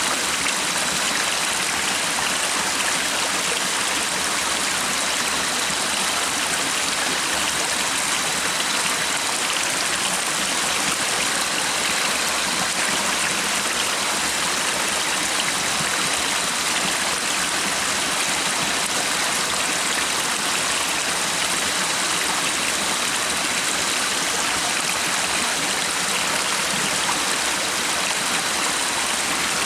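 Stream of water running steadily, an even rushing babble with no breaks, joined by a faint steady high tone.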